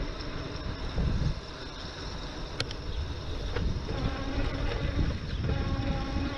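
Riding an e-bike: wind buffeting the camera microphone, with a steady whine from the electric motor over it. A sharp click sounds about two and a half seconds in.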